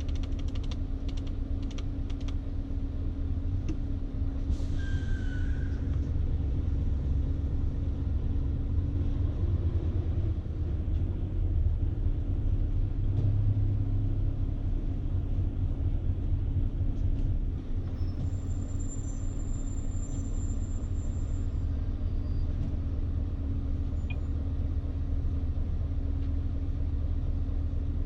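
Scania S520's V8 diesel engine droning steadily, heard inside the cab of the truck hauling about 44 tons, with continuous road rumble underneath.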